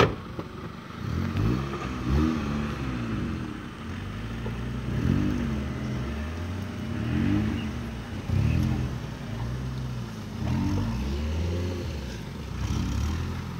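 4x4 engine revving up and dropping back about seven times, straining under load as a tow strap pulls a stuck Troller out of swampy mud. A sharp click right at the start.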